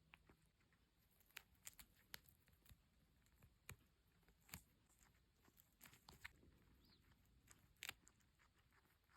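Faint, scattered small clicks and rustles from a guinea pig, about a dozen at irregular intervals.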